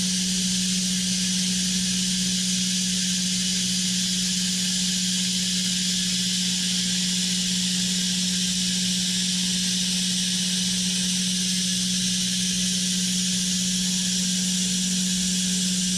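Steady low machine hum at one unchanging pitch under a constant hiss, with no cutting strikes or changes in load.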